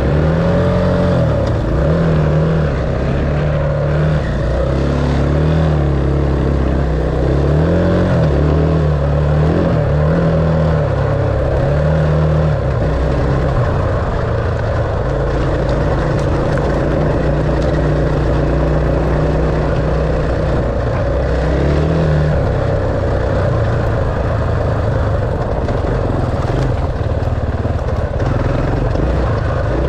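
Dirt bike engine running under changing throttle, its pitch repeatedly rising and falling for the first dozen seconds, then holding steadier.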